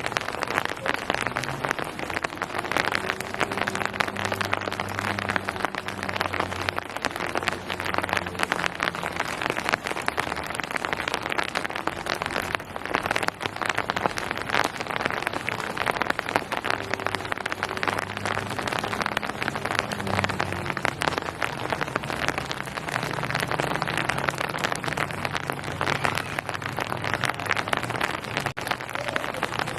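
Steady heavy rain falling on hard surfaces and foliage, a dense continuous patter of drops. A faint low hum comes and goes underneath twice.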